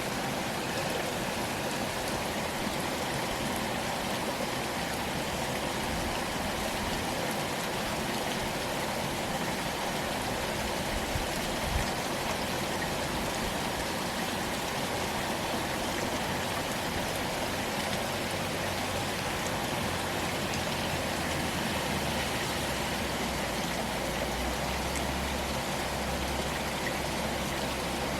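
Steady heavy rain falling and pattering on surfaces, with runoff water flowing. A low rumble joins in over the last few seconds.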